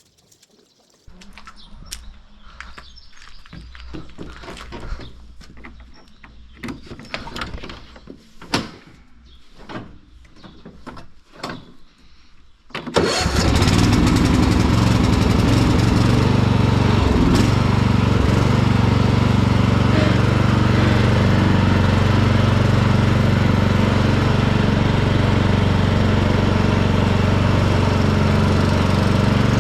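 Hecht garden tractor engine: a low hum with scattered clicks and knocks starts about a second in, then roughly halfway through the sound jumps suddenly to loud, steady running that carries on.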